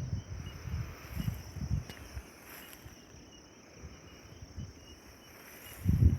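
Insects buzzing steadily at a high pitch, with a faint chirp repeating about twice a second. Low rumbling noise on the microphone comes in the first two seconds and again near the end.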